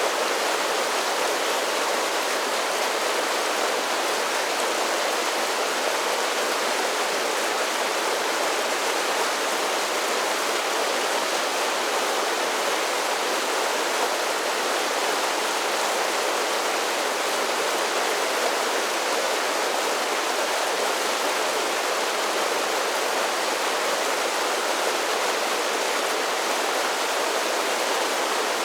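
A mountain creek running over a series of small waterfalls: a steady, unbroken rush of falling and splashing water.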